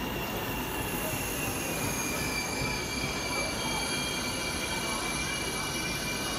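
Pendolino high-speed train (PKP ED250) rolling slowly into the station, its wheels giving a steady high-pitched squeal over a continuous rumble.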